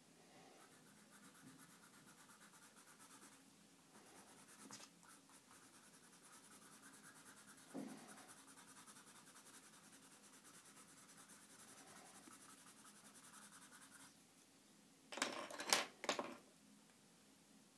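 Drawing or colouring strokes on paper, a fast even back-and-forth scratching. Two louder scraping bursts come near the end.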